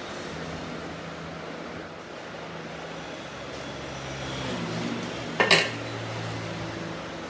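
Workshop machinery running with a steady hum that shifts in pitch about four seconds in, and one sharp metallic clank about five and a half seconds in.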